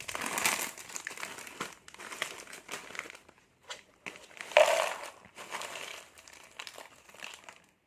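Plastic snack packets crinkling and rustling as they are handled and opened, with a louder crackle about halfway through.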